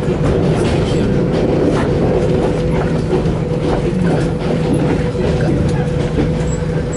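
Express train running along the track, heard from inside a carriage: a loud, steady rumble with a held low hum, broken by short irregular clicks and knocks from the wheels and carriage.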